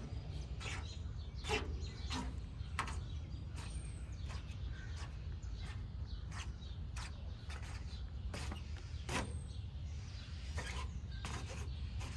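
Irregular small clicks and sticky scrapes of grease being worked around the edge of a tray, over a steady low rumble.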